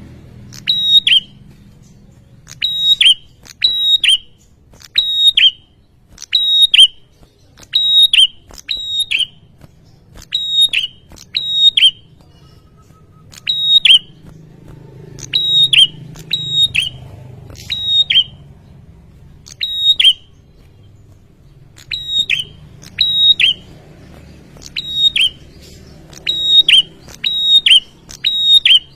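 A prenjak (prinia), of the kind sold as the red-headed prenjak, calling over and over: sharp, high, two- or three-note chirps repeated about once a second, with a couple of short pauses.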